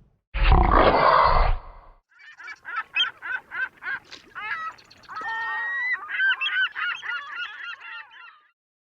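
A loud burst of rushing noise lasting about a second and a half, then a long run of bird calls: quick, repeated, bending notes with one longer held note midway, stopping shortly before the end.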